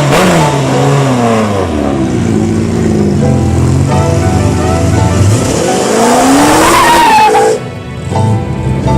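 Car engine revving hard, its pitch falling and rising again several times with a long climb near the end. It drops away about seven and a half seconds in.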